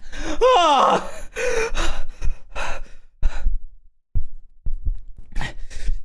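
A man's pained vocal noises from the burn of very spicy noodles: a wavering whine that rises and falls in the first second, then a string of sighs and short, sharp breaths.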